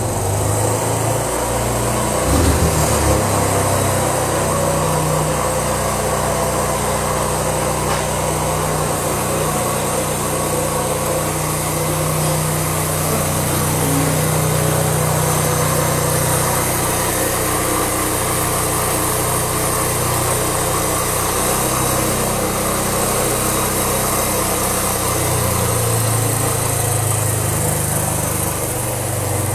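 Small single-cylinder motorcycle engine running steadily near idle, its pitch drifting slightly up and down.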